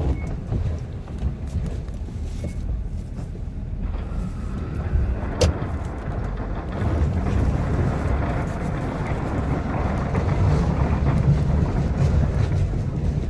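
Ford F-250's 6.7 L Powerstroke V8 diesel running under load while plowing snow, a steady low drone. A rushing noise builds up over it from about four seconds in and grows louder toward the end. There is one sharp click near the middle.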